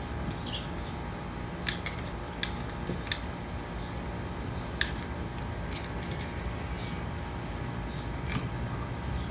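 Scattered sharp metal clicks and clinks from tools and hydraulic pump parts being handled during disassembly, about a dozen spread over several seconds, over a steady low hum.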